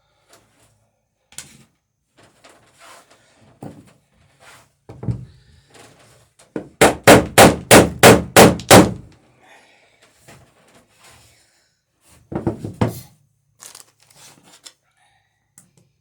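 Hammer blows riveting wooden boat planking: a quick run of about seven loud strikes, roughly three a second, with scattered lighter taps and knocks around them and a second short burst of blows later on.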